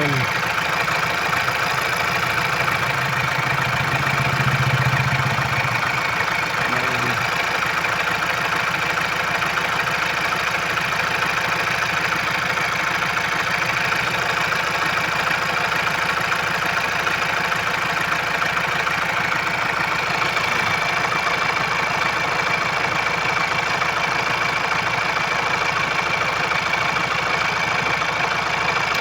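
Ford car engine idling steadily, with a steady high-pitched tone running over it.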